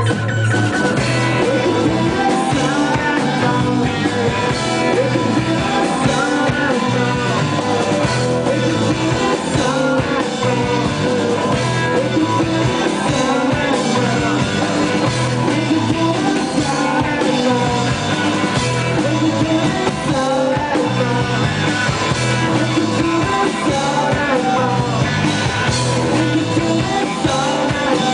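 Live rock band playing a song: electric guitar and drums, with a singing voice.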